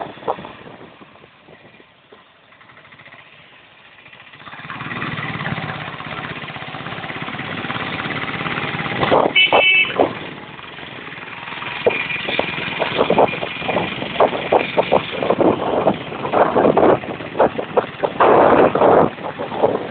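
Road traffic with motorcycles, quiet at first and building after about four seconds. A brief horn beep comes near the middle.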